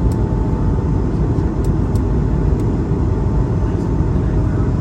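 Steady cabin noise of an Airbus A220-300 with Pratt & Whitney PW1521G geared turbofan engines, heard from a window seat: a constant low rumble with faint steady tones above it. A few faint small ticks come through.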